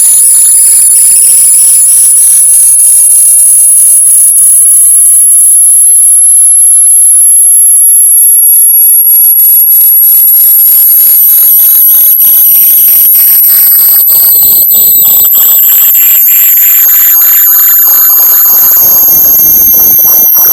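Loud, piercing high-pitched electronic tone with several pitches that glide slowly, the highest slowly rising. It is a synthetic alarm-like locator sound, played to make a lost AirPod audible.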